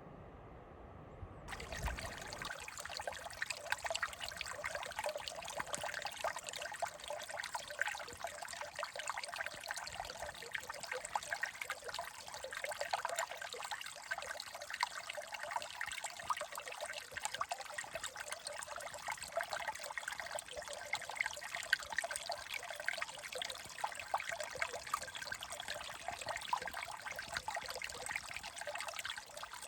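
Small stream trickling steadily, a dense crackling hiss of running water. It comes in suddenly about a second and a half in.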